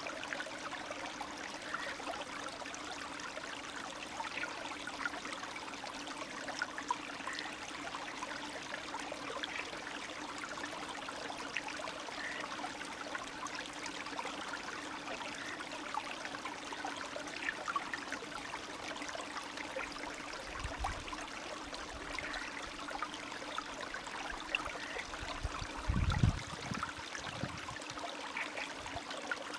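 Spring stream trickling and burbling steadily, with many small splashes and gurgles. Near the end come a few short low thumps, the biggest about three seconds before the end.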